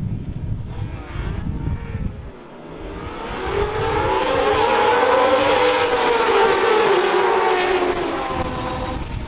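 Wind buffeting the microphone, then from about three seconds in racing motorcycles approach, pass and draw away, their engine note loudest in the middle and dropping in pitch as they go by.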